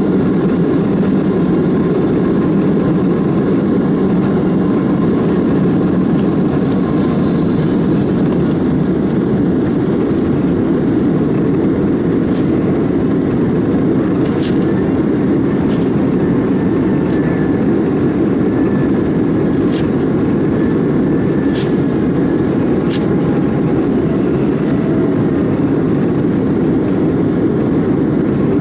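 Cabin noise of a Boeing 767-300ER at takeoff thrust, its Rolls-Royce RB211 engines making a loud, steady roar as heard from a window seat. Faint whining tones fade out about a third of the way in, and a few sharp clicks or rattles come in the second half.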